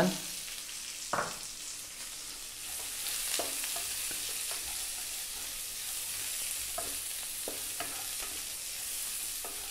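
Sliced red onion and garlic sizzling in hot oil in a wok, stirred with a wooden spatula that scrapes and clicks against the pan. There is one sharp knock about a second in, and the sizzle grows a little louder after about two and a half seconds.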